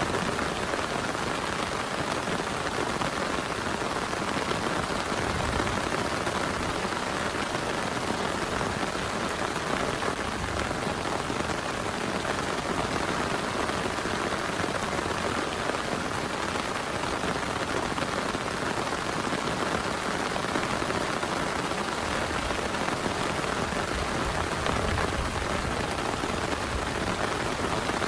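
Heavy rain falling steadily, a dense, even patter with no breaks.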